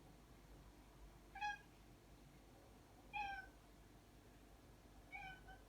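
Kitten mewing: three short, high mews about two seconds apart, each falling slightly in pitch.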